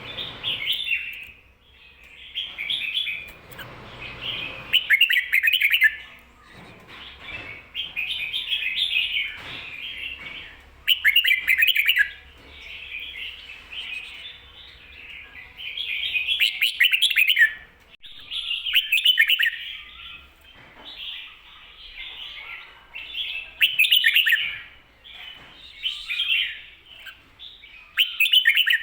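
Red-whiskered bulbul singing its doubled 'ko-ta-ra' song, short warbled phrases repeated every two to three seconds. This is the song type that keepers play to teach caged bulbuls.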